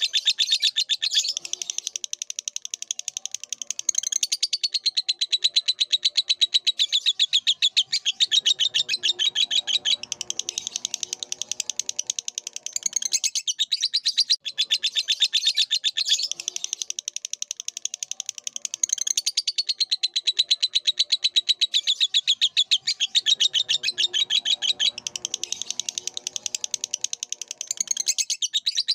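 Lovebird singing a long, fast chattering song of rapid high-pitched chirps, broken by a brief pause about halfway through.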